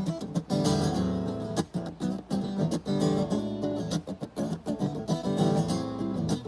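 Acoustic guitar strummed in a steady rhythm, playing the instrumental break between sung verses of a song.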